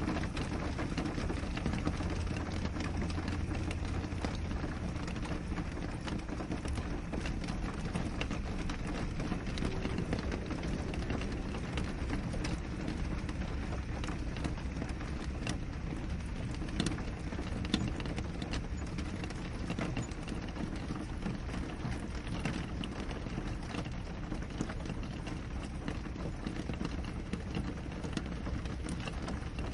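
Steady rain falling on a window, an even rushing hiss with scattered individual drops ticking against the glass.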